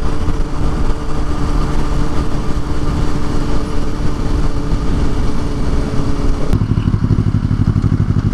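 Motorcycle engine running as the bike rides along, with wind and road noise over it. About six and a half seconds in, the engine note drops to a slower, evenly pulsing beat.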